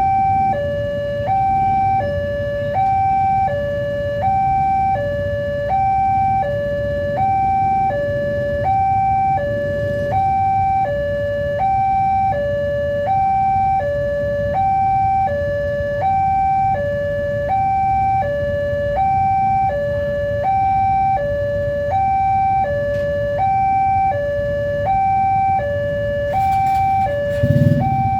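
Railway level-crossing warning alarm sounding an electronic two-tone hi-lo signal, its high and low notes alternating evenly about once every 1.3 s, over a steady low rumble. A brief louder noise breaks in near the end.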